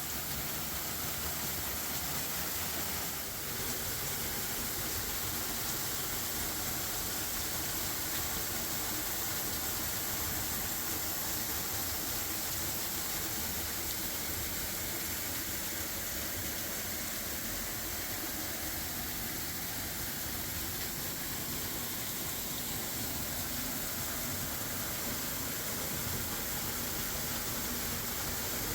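Steady rushing of water falling at a partly frozen waterfall, an even hiss with no change.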